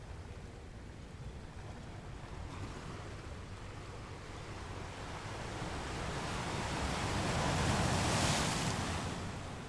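Sea waves on a shore: a low steady rumble, with one wave swelling and breaking into a loud hissing wash about eight seconds in before it ebbs.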